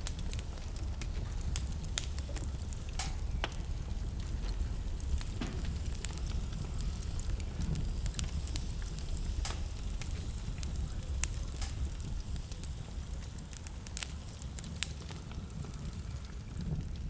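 Wood fire burning in a fireplace: a steady low rumble of the flames with irregular sharp crackles and pops, scattered and uneven, a few louder snaps standing out.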